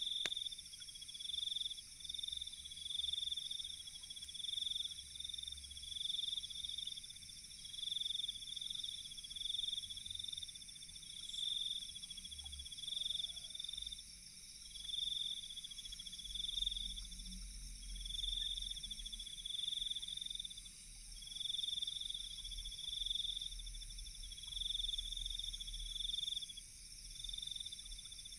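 Night insect chorus of crickets: a pulsing trill that swells and fades about once a second, over a steady high buzz. A faint low rumble comes in about halfway through.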